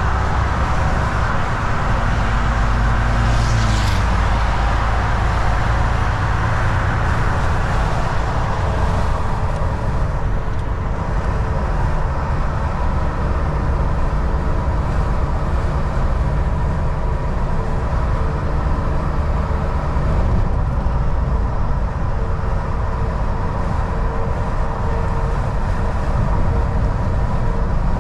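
Semi-truck (Volvo VNL 760) driving at highway speed: steady diesel engine drone and tyre and road noise. About three seconds in, the engine note drops in pitch, with a brief hiss at the same moment.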